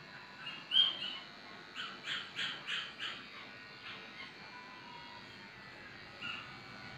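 A bird calling in short calls: one loud call about a second in, then a quick run of about five calls, and another near the end. Under them runs the steady hum of electric dog clippers.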